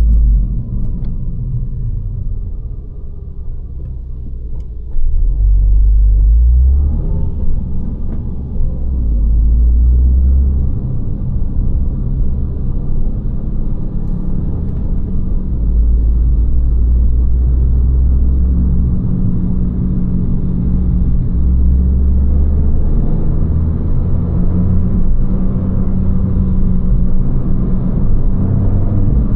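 Abarth 595 Competizione's 1.4 T-Jet turbocharged four-cylinder engine and Record Monza exhaust rumbling while the car is driven, getting louder about five seconds in and then running on steadily.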